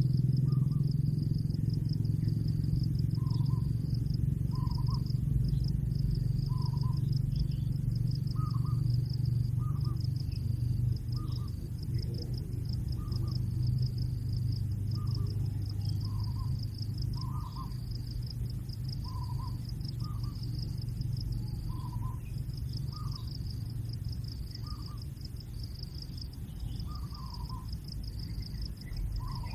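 A bird calling in short notes, roughly one a second, over a steady pulsing insect drone and a low rumble that slowly fades.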